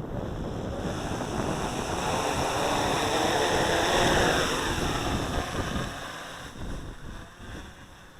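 SK450 quadcopter's brushless motors and propellers whirring. The sound swells to a peak about four seconds in, then dies away. Wind buffets the microphone throughout.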